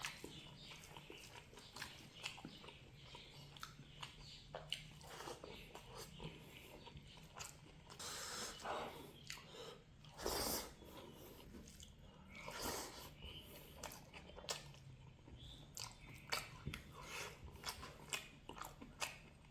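Close-up chewing and biting of pork with mustard greens and rice: many small wet mouth clicks, with a few longer, louder noisy mouth sounds in the middle.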